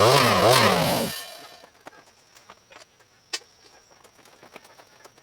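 Chainsaw running, its pitch rising and falling repeatedly as it cuts, then stopping about a second in. Faint scattered clicks and a thin high tone follow.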